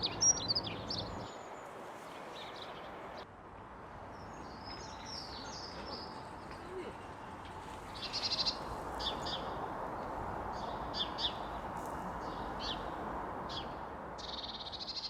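Dunnock singing: short, fast, high warbling phrases, the fullest bursts about eight seconds in and near the end, over a steady background rush of noise.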